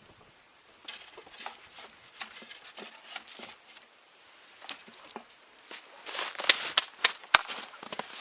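Rustling and light knocking as objects are handled and moved, with a few sharp clicks between about six and seven and a half seconds in.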